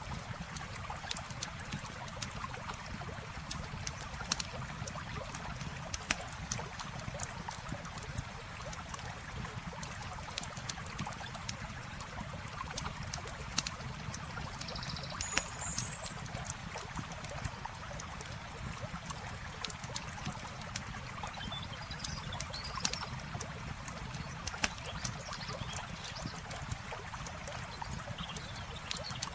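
Campfire crackling with scattered sharp pops over the steady rush of flowing river water. A few faint, short, high chirps come about halfway through and again later.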